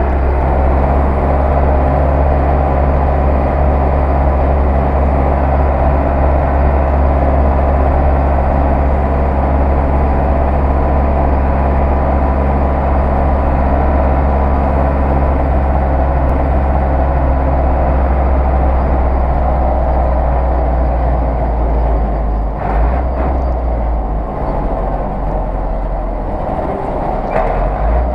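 Zetor 6911 tractor's diesel engine running steadily. Near the end the steady engine note breaks up and a couple of sharp knocks are heard.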